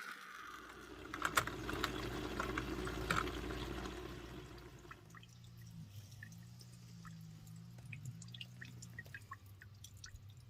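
Stale gasoline draining from an old bus fuel tank into a bucket: a steady pouring stream for about the first five seconds, then a thinner trickle with scattered drips.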